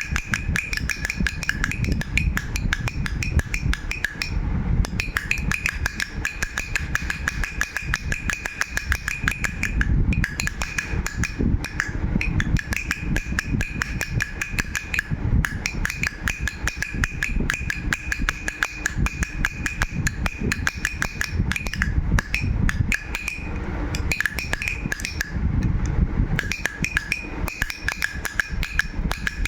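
Baby rattle shaken continuously: a dense, fast clatter of clicks with a steady high ringing tone running under most of it, thinning briefly a few times.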